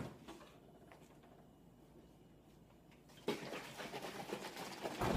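Almond milk being poured, a splashing trickle that starts about three seconds in and lasts about two seconds.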